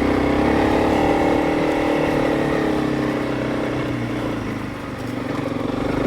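Honda CRF300 Rally's single-cylinder four-stroke engine running steadily under way, easing off briefly about five seconds in and then picking up again.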